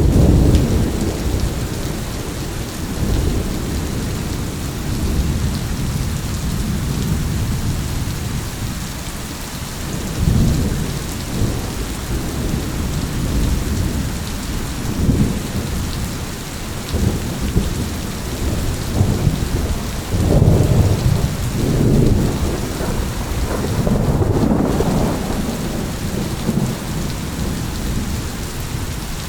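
Steady rain with rolling thunder: low rumbles swell and fade again and again over the rain's hiss, the loudest peals coming about two-thirds of the way through.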